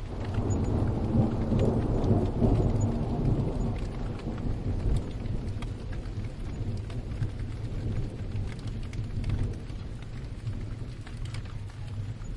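A roll of thunder rumbles in at the start, swells over the first couple of seconds and dies away after about five. Steady rain falls throughout, with scattered drops ticking.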